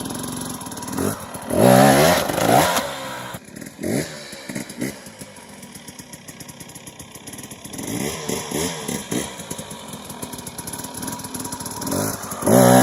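Dirt bike engine revving in short bursts, rising in pitch, loudest about two seconds in and again near the end, running lower between.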